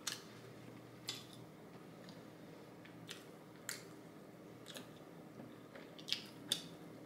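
A person chewing McDonald's french fries close to the microphone, with about seven short, sharp mouth clicks and crunches spaced a second or so apart.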